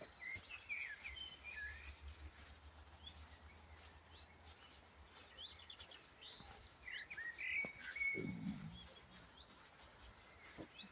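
Small songbirds chirping and singing in woodland, with short sweeping calls in two bursts, near the start and again about seven seconds in, over quiet outdoor background. A brief low sound comes about eight seconds in.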